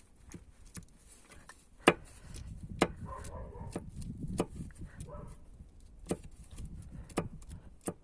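Sharp, irregular clicks and knocks of hand tools and metal parts being handled at a dismantled car engine, about nine over the stretch, the loudest about two and three seconds in.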